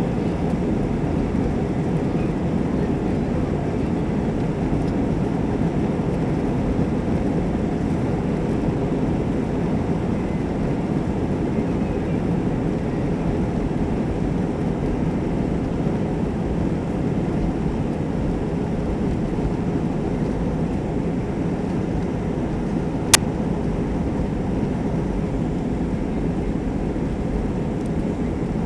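Airbus A320 jet engines running at takeoff power, a steady low rumble with no rise or fall. A single sharp click about 23 seconds in.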